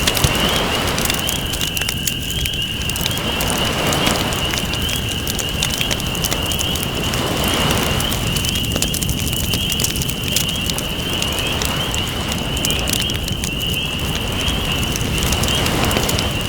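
Campfire crackling and popping, with ocean waves washing in every few seconds beneath it.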